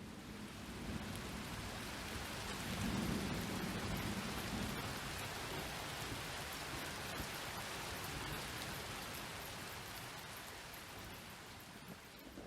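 Steady rain falling on a surface, a dense hiss with fine patter of drops. A low rumble of distant thunder swells and fades a few seconds in.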